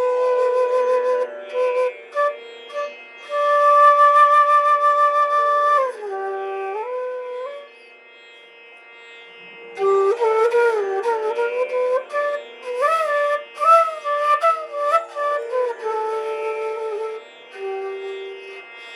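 Flute music: a slow melody of long held notes with a slight waver and sliding ornaments between pitches, over a steady drone, thinning to a quieter passage about halfway through before the ornamented line returns.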